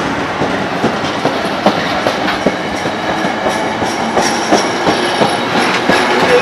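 A train passing close by, its wheels clicking over the rail joints in a steady clatter with rolling rail noise.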